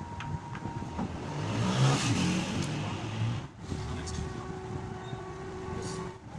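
A motor vehicle passing, its engine noise swelling to a peak about two seconds in and then fading.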